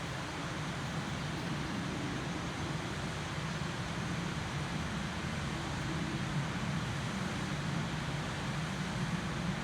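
Waterfall splashing and rushing in a steady, unbroken wash of noise.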